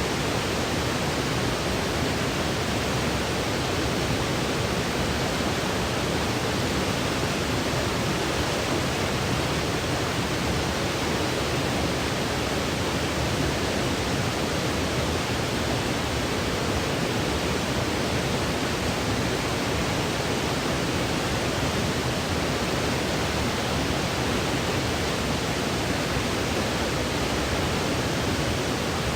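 Steady white noise for sleep: an even, unchanging hiss.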